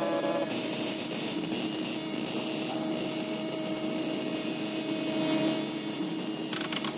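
Steady electrical humming with a dense hissing crackle laid over it from about half a second in: a cartoon sound effect for electrical machinery.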